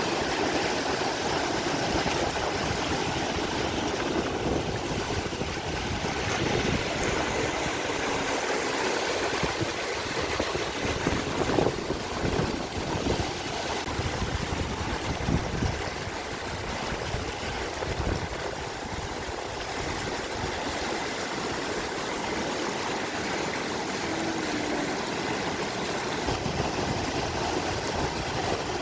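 Steady rush and splash of water falling from a decorative street fountain cascade.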